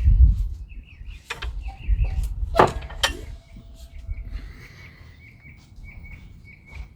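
Small songbirds chirping over and over, with a run of quick repeated notes in the second half. A low rumble on the microphone is loudest right at the start, and a few sharp clicks come a second or two in.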